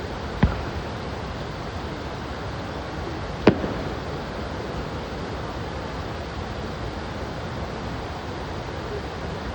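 Two fireworks bursting, sharp bangs about three seconds apart, the second louder with a short echo, over a steady rushing noise.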